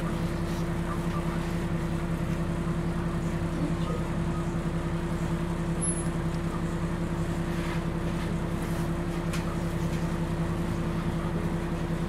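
Scania CN113CLL city bus with its Scania DSC 11.71 diesel engine running, a steady, unchanging drone.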